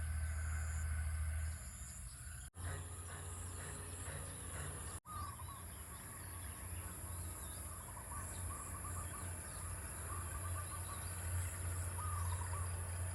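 Birds chirping and calling in short repeated notes over a steady high-pitched insect drone and a low rumble. The sound cuts out briefly twice, about two and a half and five seconds in.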